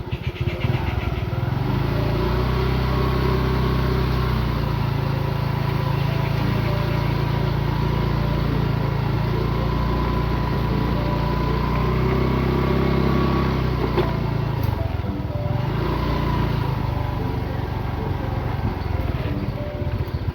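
Motorcycle engine running steadily under way, with a single sharp click about fourteen seconds in.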